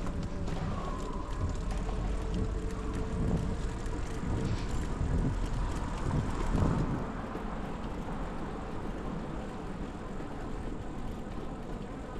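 Bicycle riding noise: a steady rumble of tyres on the path, with wind on the microphone, swelling briefly about six and a half seconds in.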